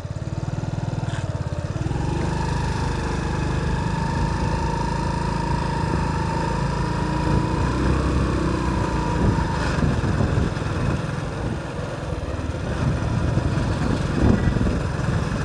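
Motorcycle engine running steadily under way, with a higher whine from about two seconds in that fades out near ten seconds.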